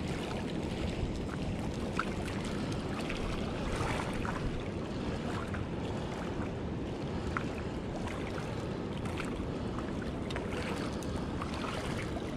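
Steady wind buffeting the microphone, with a few faint small clicks scattered through it.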